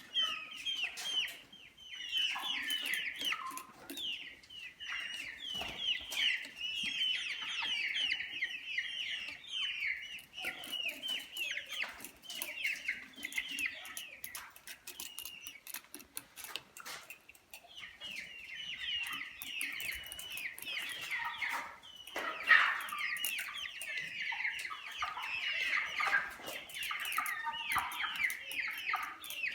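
Brahma chickens calling together: a dense run of rapid, high, falling chirps and clucks with sharp clicks among them. The calling thins out about halfway through and builds up again after about eighteen seconds.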